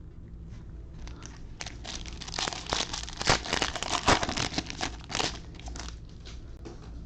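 Foil wrapper of a Bowman baseball card pack crinkling and tearing as it is handled and opened, in a dense run of crackles that peaks in the middle and trails off after about five seconds.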